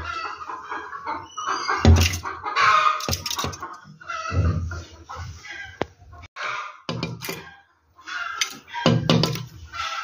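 Birds calling with short, harsh, repeated notes, broken by several dull thumps.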